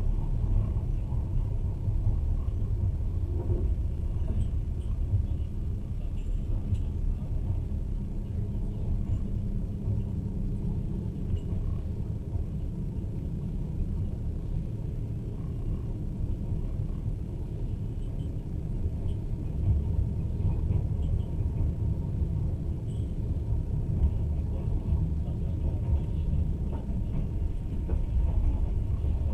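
Passenger train running along the track: a steady low rumble of wheels on rails and the moving carriage, heard from inside the carriage.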